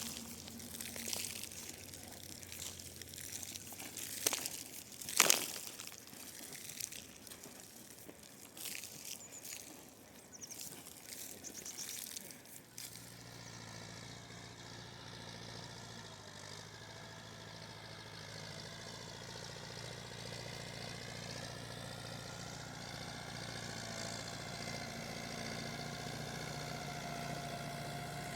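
Rustling and crunching handling noises with a few sharp clicks, then, a little under halfway through, a motor engine comes in suddenly and runs steadily at idle, growing slightly louder toward the end.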